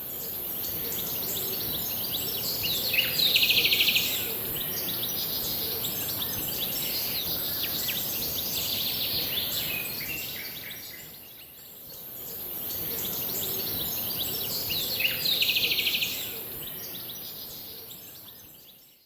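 Forest ambience: birds chirping and calling, with a brief buzzing trill, over a steady high-pitched insect drone. The same recording plays twice, fading down and back up about halfway through.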